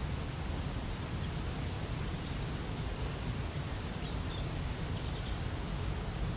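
Waterfall rushing steadily, with a few faint, high bird chirps about two to five seconds in.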